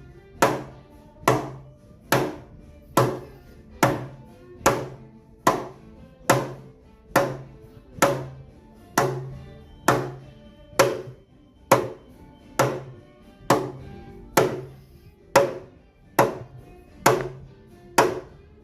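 Hammer blows driving a speaker-box port tube into a press fit: sharp, evenly paced strikes a little faster than one a second, each ringing briefly.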